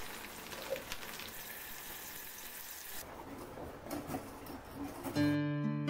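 Vegetables sizzling as they are stir-fried on a hot tawa, stirred with a spatula. About three seconds in the sizzle cuts off to the softer sound of a wire whisk working a thick mixture in a steel pan. Acoustic guitar music starts near the end.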